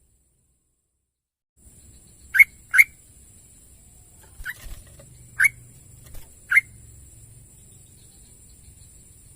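Yellow-vented bulbul calling: after a moment of silence, a quick pair of short sharp chirps, then three single chirps about a second apart with a few softer notes between.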